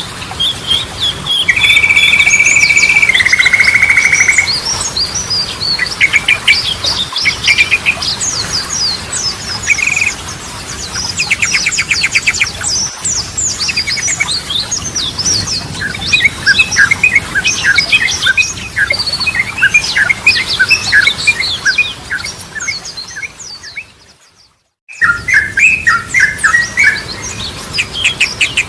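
Yellow-vented bulbuls (trucukan) singing, with rapid chattering chirps and trills and a long held whistle near the start. The song fades out briefly about three-quarters of the way through and starts again.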